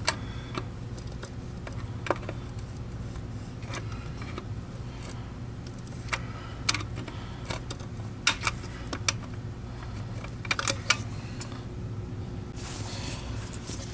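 Screwdriver prying a friction-fit power switch out of a TriStar vacuum's plastic handle: irregular clicks and knocks of metal on plastic, a few in quick clusters, with a brief scrape near the end. A steady low hum runs underneath.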